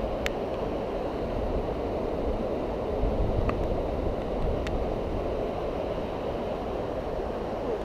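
Steady rumble of wind and road noise while riding a Xiaomi M365 electric scooter, with a few short sharp clicks.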